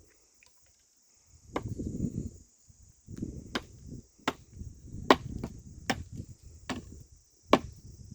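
Sharp knocks repeating roughly once a second, each over a low thud and rustle, starting about a second and a half in. A steady high trill of crickets or similar insects runs underneath.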